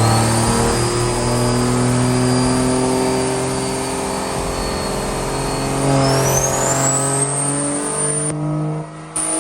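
Truck engine under hard acceleration, with a high whine that climbs, holds, then climbs again about six seconds in. The engine lets off near the end.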